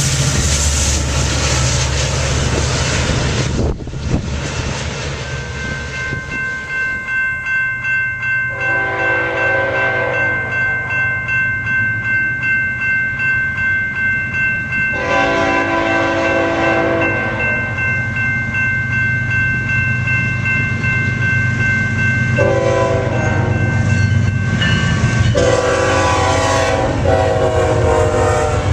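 Train horn sounding the grade-crossing signal, two long blasts, a short one and a final long one, over crossing bells ringing steadily. Loud rumbling of a train on the tracks fills the first few seconds.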